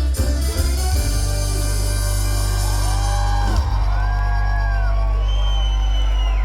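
Live band music: after a busy first second the band holds one sustained chord over a steady low bass note, with a few separate high keyboard notes that slide up as they start and down as they end. Some crowd whooping can be heard.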